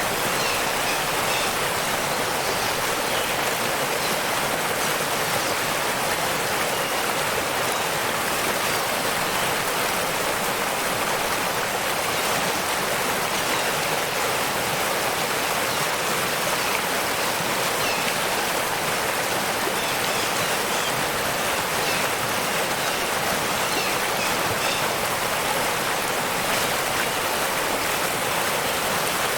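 Waterfall: a steady, even rush of falling water, hissy rather than deep, with no change throughout.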